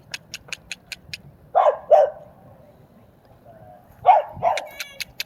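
A dog barking in two pairs of short, sharp barks, the second pair about two seconds after the first. A run of quick sharp clicks, about five a second, comes before the first barks and again near the end.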